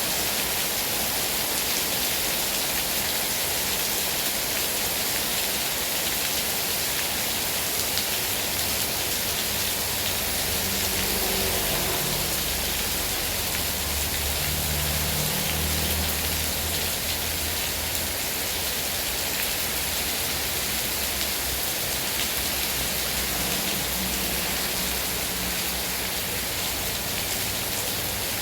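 Heavy rain falling steadily, a dense even hiss of rain on surfaces, with a low rumble rising underneath for a few seconds midway.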